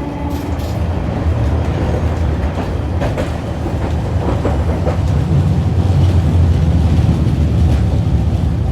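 Hiroshima Electric Railway type 650 tram, car 652, running, heard from inside the car: a steady low rumble of wheels and running gear that grows louder over the first six seconds or so, with a few faint clacks of the wheels over the track.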